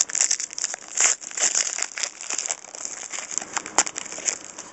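A trading-card pack wrapper being torn open and crumpled, giving a run of irregular crinkles and crackles that thin out near the end.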